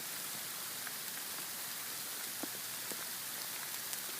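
Steady hiss of falling sleet or ice pellets, with a few scattered light ticks of pellets striking.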